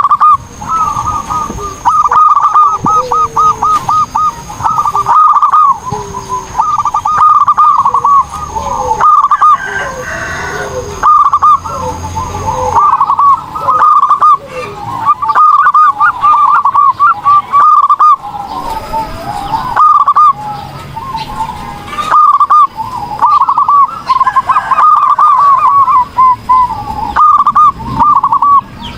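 Zebra dove (perkutut) singing in full voice: phrase after phrase of quick, rippling coos, each a second or so long, with short pauses between them.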